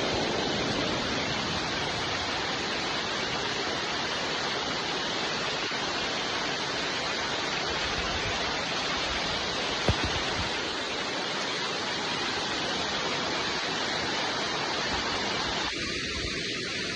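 Steady, dense rainfall, an even hiss with no let-up, with a single sharp tick about ten seconds in.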